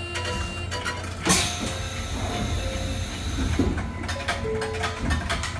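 Electric train running on the Mizuma Railway, heard from inside the cab: a steady low hum under continual rattling and clicking, a sharp knock about a second in, and a few brief high tones.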